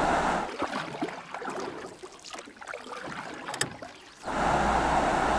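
Steady rushing of river water over rapids, which drops away abruptly about half a second in and comes back just after four seconds. In the quiet gap there are only faint scattered clicks and ticks.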